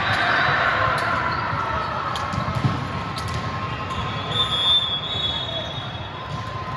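Gym game sounds: a steady crowd and court noise with several sharp ball or shoe knocks, and a high sneaker squeal on the court floor about four seconds in.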